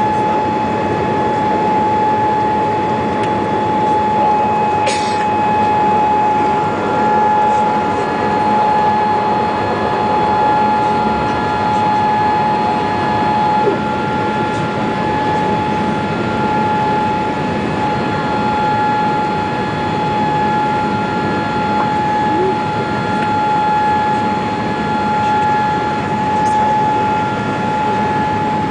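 Jet airliner cabin noise after takeoff: a steady rush of engine and air noise with a constant high whine on top.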